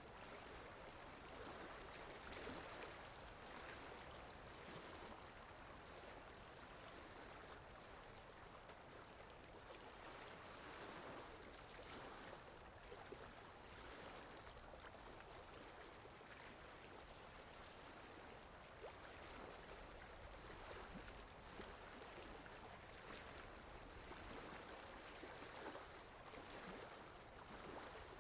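Steady, faint rainfall: an even hiss of rain with small irregular patters.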